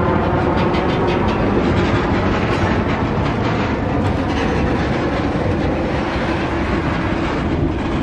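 Freight train cars rolling past with a steady rumble, their steel wheels clicking repeatedly over the rail joints.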